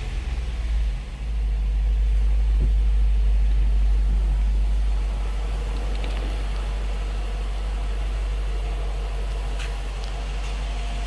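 2008 Dodge Charger's 6.1-litre Hemi V8 engine settling down from a rev in the first second, then idling steadily with a deep low rumble.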